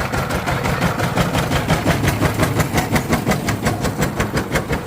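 Diesel engine running steadily just after starting, with a fast, even beat.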